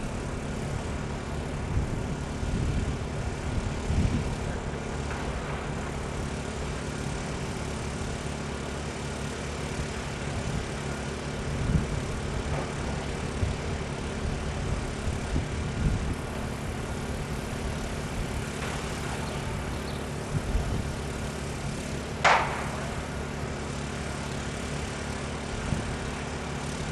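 Steady engine hum from machinery running, with irregular low rumbles and one short, sharp sound about three quarters of the way through.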